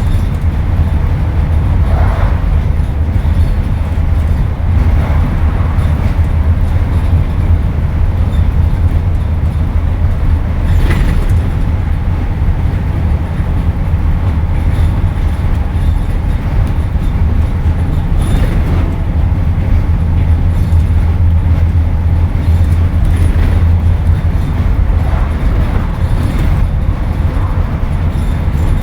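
Scania N230UD double-decker bus's five-cylinder diesel engine running under way, heard from inside the bus: a steady low drone with road rumble and a few short rattles from the body.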